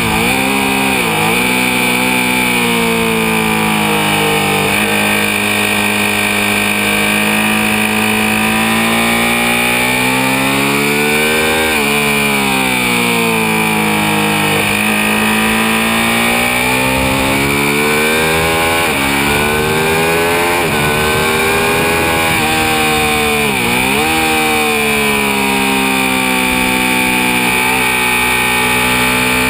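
Ducati 1199 Panigale's Superquadro V-twin engine under hard acceleration on track, its pitch climbing through the revs and dropping sharply on downshifts about a second in, around twelve seconds in and near twenty-four seconds in.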